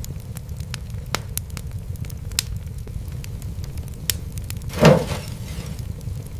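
Wood fire crackling, with scattered sharp pops over a steady low rumble. One louder pop with a short hiss comes about five seconds in.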